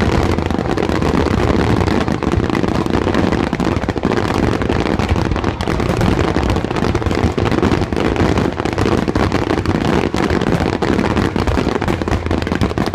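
Fireworks finale barrage: many shells bursting in rapid, overlapping succession, a dense, continuous run of cracks and booms with no gaps.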